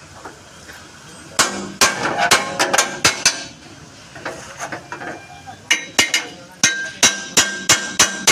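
Hammer beating out a dent in a truck cab's steel sheet metal, each blow ringing briefly. A quick run of blows about a second in, a pause, then steady blows about two or three a second.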